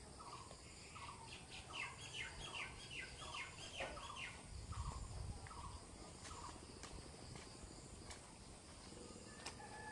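Faint birds calling: a short falling note repeated about twice a second, joined between about two and four seconds in by a quick run of higher arched notes.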